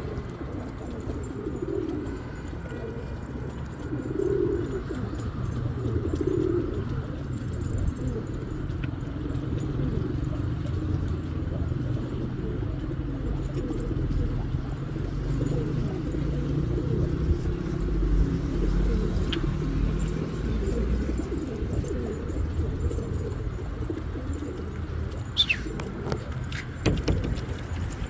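Kerman pigeons cooing: several low coos in the first seven seconds, over a steady low rumble. A short falling chirp comes near the end.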